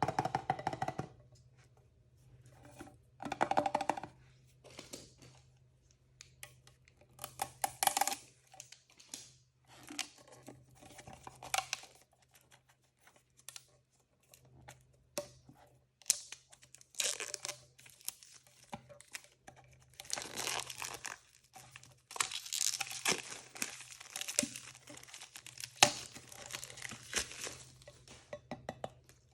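Blind-bag packaging being torn open and crinkled by hand, in irregular bursts with short pauses between, busiest in the second half. A faint steady low hum runs underneath.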